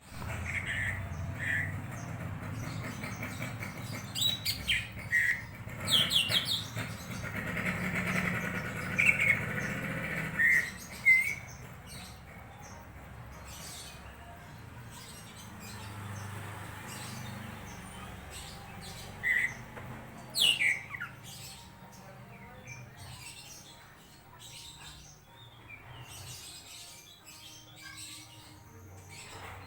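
Cucak ijo (green leafbird) calling in scattered chirps and short whistled sweeps, some falling steeply in pitch, with a low rumble behind it during the first ten seconds or so.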